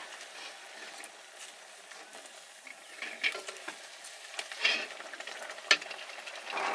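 Sel roti frying in hot oil, a steady sizzle, with a utensil scraping and clicking in the pan; one sharper click comes near the end.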